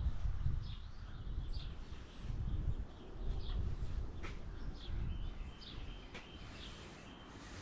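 Small birds chirping: short, high, downward-sweeping calls repeated about once a second, over a low rumble.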